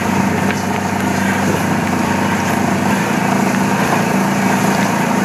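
Golf cart driving along at a steady speed, its motor giving a constant, even hum.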